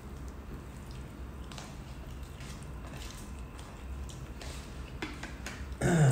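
People chewing and eating, with soft wet mouth sounds and scattered faint clicks over a low steady hum. Near the end comes a short, louder voice sound.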